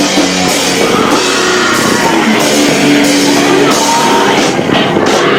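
Live rock band playing loud, with guitars, drums and vocals, recorded on a camcorder microphone that is overloaded by the volume, so the sound is distorted.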